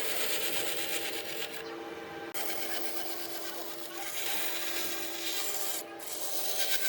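Wood being worked with a tool: a rough rasping, rubbing noise that stops briefly twice, over a steady hum.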